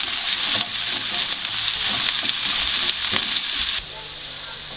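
Diced zucchini and onion sizzling in oil in a frying pan, stirred with a wooden spatula. The sizzling cuts off suddenly near the end, leaving a quieter room.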